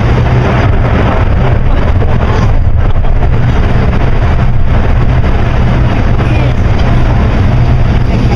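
A steady engine drone with a constant low hum, under loud wind and rushing noise.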